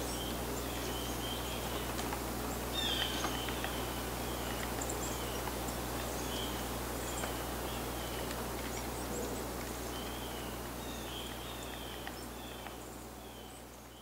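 Outdoor ambience: a bird repeatedly giving short, falling chirp notes over a steady hiss, fading out near the end.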